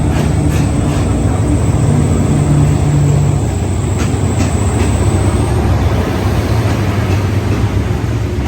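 A train's engine running with a steady low rumble. A few sharp clicks sound over it, and a thin high whine fades out about halfway through.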